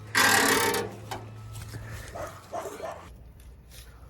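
One loud, short animal call, less than a second long, followed by faint scattered sounds.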